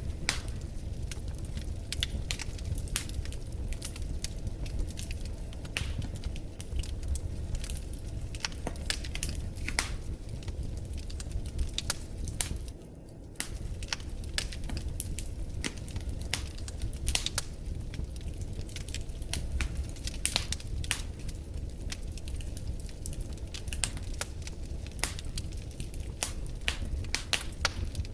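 Wood fire burning in a fireplace: frequent sharp crackles and pops over a steady low rumble of flames. The sound dips briefly about halfway through.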